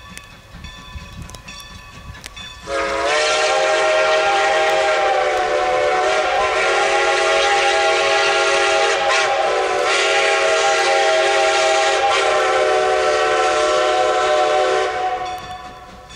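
Steam whistle of Strasburg Rail Road 2-10-0 Decapod No. 90 sounding one long chime-whistle blast of several notes at once, starting about three seconds in, wavering briefly twice, and dying away after about twelve seconds.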